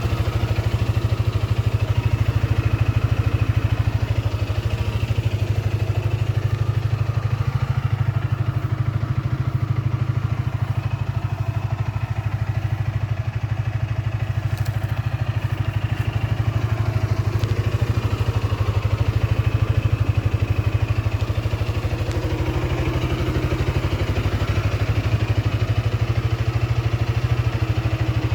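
2012 SYM Maxsym 400i scooter's single-cylinder engine running steadily at idle, with a fast, even beat.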